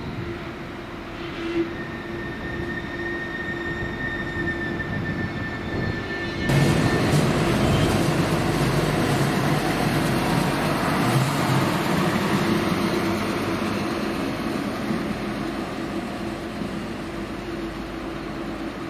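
A train running through the station: a high steady whine over a low hum, then about six seconds in a sudden, much louder rush of wheel and rail noise that slowly fades, with wind on the microphone.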